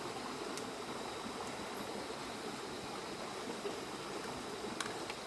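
River rapids rushing steadily, an even wash of water noise, with a faint click near the end.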